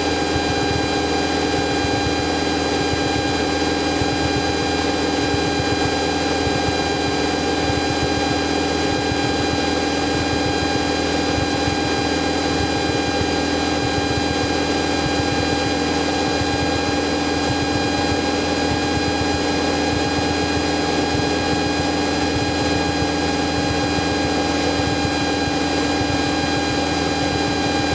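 Cessna 172's piston engine and propeller droning steadily in the cabin at cruise power, an even hum of fixed tones over a hiss of air.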